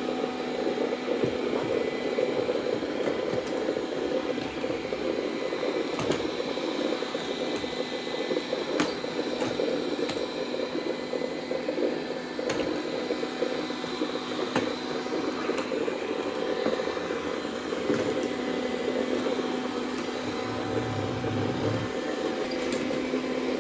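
Dreame D10 robot vacuum running steadily while sucking up Orbeez water beads, with a few sharp clicks scattered through.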